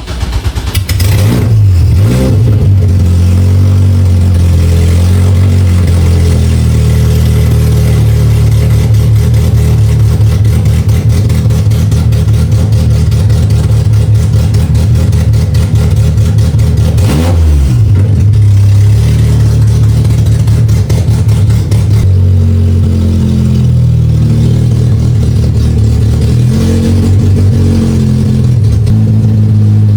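Race car engine catching and then running loud and steady, its pitch swinging up and settling in the first couple of seconds and briefly dipping and recovering about halfway through. It is the engine's first run after a rollover, on a freshly fitted replacement throttle sensor.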